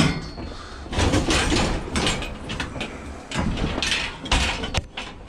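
Scrap metal being shoved and dragged into a tightly packed van, a run of scraping and clattering bursts.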